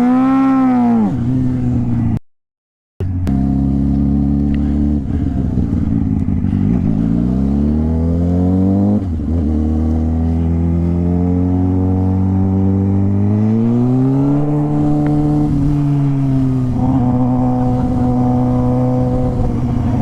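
Motorcycle engine accelerating: its pitch climbs in long rises, drops sharply at a gear change and climbs again, then holds steady near the end. It cuts to silence for a moment about two seconds in.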